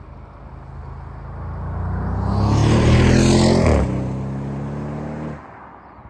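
Audi RS6's 4.0-litre twin-turbo V8 accelerating past: the engine note builds, is loudest as the car goes by about three seconds in, then drops in pitch as it drives away and falls off sharply near the end.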